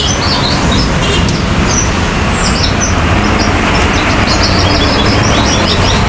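Branjangan (Javan bush lark) singing rapid strings of short high chirps over a loud, steady rushing noise. The song thins out in the middle and picks up again near the end.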